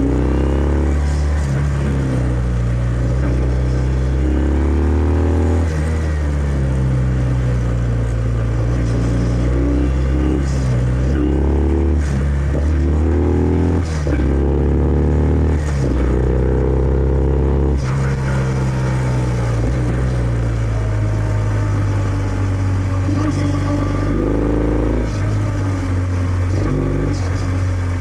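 Kawasaki W650's air-cooled parallel-twin engine running through its stock exhaust while riding. The revs climb and drop back several times in the first two thirds, then run lower and steadier.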